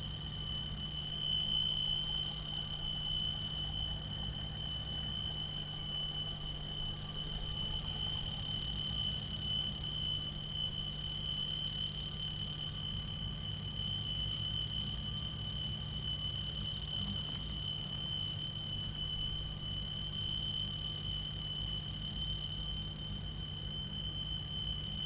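A steady high-pitched whine of several tones over a low hum, unchanging throughout.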